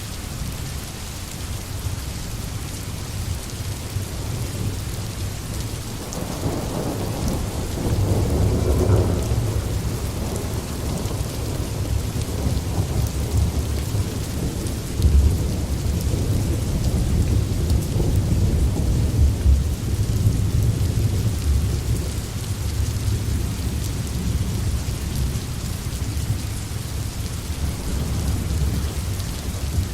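Steady rain falling on a forest, with a long low rumble of thunder that builds about six seconds in and rolls on through the middle.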